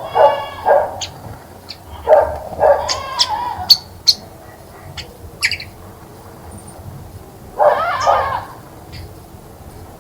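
Three loud, drawn-out animal calls: one at the start, a longer one about two seconds in, and one near the end. Short high bird chirps come in between.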